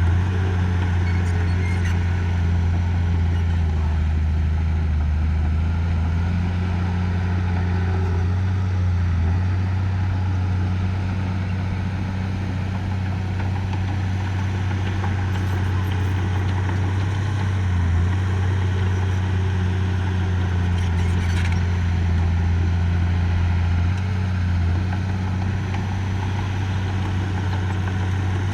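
Diesel engine of heavy earthmoving machinery running steadily under load at a constant low note, its pitch dipping briefly a few times.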